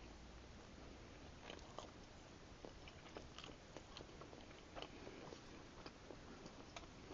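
Faint close-up chewing of a bacon cheeseburger: soft, wet mouth clicks and smacks, scattered irregularly.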